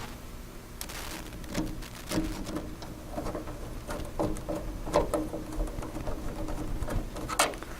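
Light, scattered clicks and taps of screws being started by hand with a screwdriver into a truck door's vent window frame, over a faint steady low hum.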